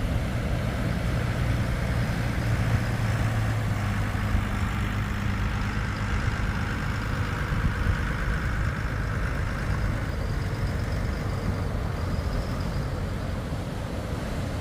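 Engine running with a steady low hum over surf and wind, the hum fading about halfway through.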